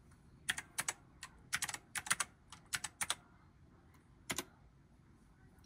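Typing on a computer keyboard: a quick, irregular run of separate key clicks over the first three seconds, one more click about four seconds in, then a pause.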